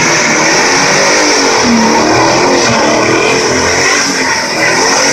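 Box Chevy's engine revving up and down hard while doing donuts, with the rear tires spinning and squealing against the pavement.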